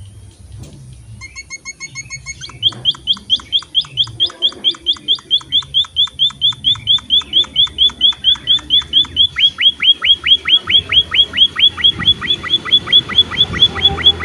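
Emprit (munia finch) song: a few short staccato notes about a second in, then a long run of rapid, evenly repeated high chirps, about four a second, growing louder toward the end.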